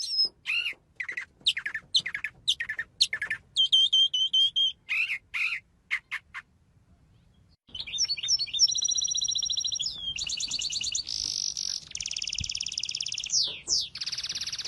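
Songbirds calling and singing: a string of separate short chirps and whistles, then after a brief silence a continuous run of fast rattling trills.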